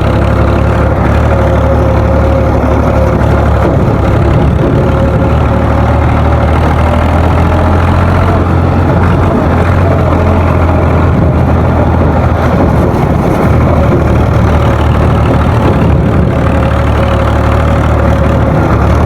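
Ford 4600 tractor's three-cylinder engine running steadily at full speed, with an even, unchanging note and a faint steady whine above it.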